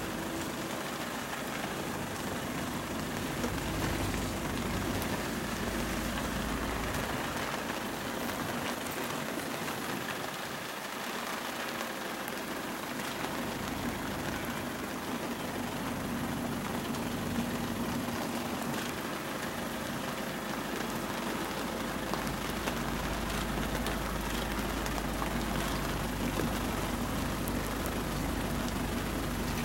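Heavy rain falling on a vehicle, over a steady idling car engine. The engine's low hum drops away for a few seconds around ten seconds in and comes back stronger near the end.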